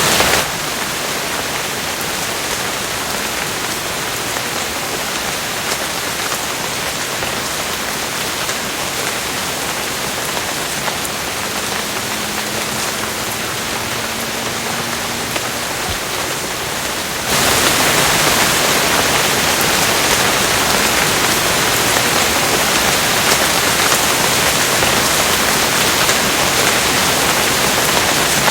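Steady heavy rain, a dense even hiss. About 17 seconds in it abruptly becomes louder and brighter, as at a splice between two rain recordings.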